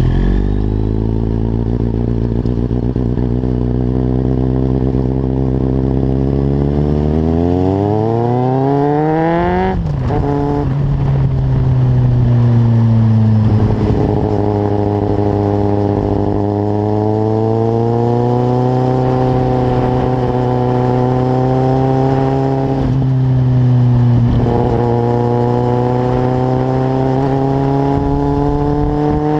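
Kawasaki Z750 motorcycle with a carbon Leovince exhaust, accelerating under way. The engine's pitch climbs slowly for several seconds and falls sharply about ten seconds in. It then rises gradually again, dips briefly near the end and climbs once more, as with gear changes while riding.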